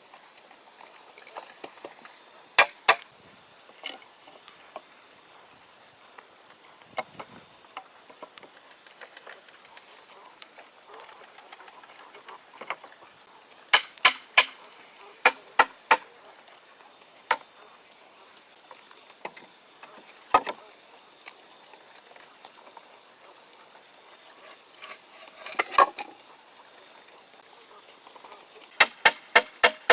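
Sharp knocks of a tool striking wood, coming singly and in quick runs of two to five blows with pauses of several seconds between them.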